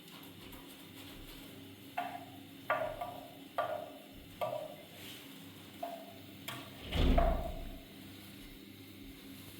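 A series of sharp knocks, each ringing briefly with a hollow tone, followed by one heavier, deeper thump about seven seconds in.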